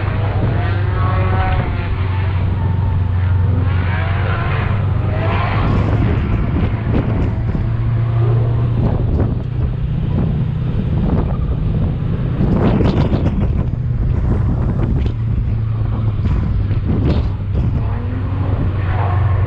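Drift car engine running hard, its revs rising and falling repeatedly, over a steady low drone.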